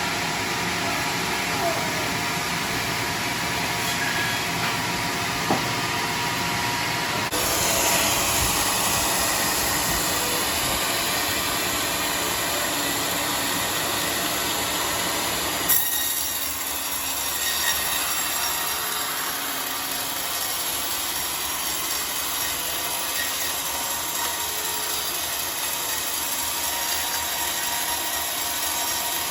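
Sawmill machinery running steadily, a bandsaw cutting a large log. The noise is continuous and changes sharply in character about 7 seconds and 16 seconds in.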